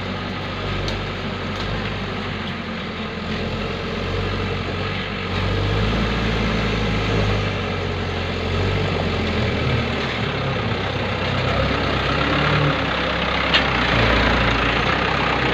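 Dump truck engine running steadily, getting louder about five seconds in as it pulls harder.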